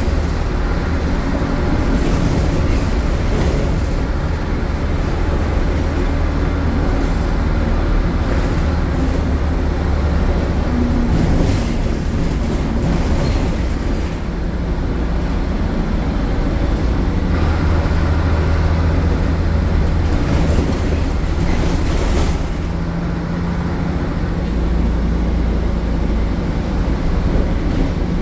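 Diesel engine of a MAN A76 Lion's City city bus (MAN Euro 4 engine with ZF automatic gearbox) running loudly while under way, its engine note rising and falling with speed. A few short bursts of noise stand out over the engine sound partway through.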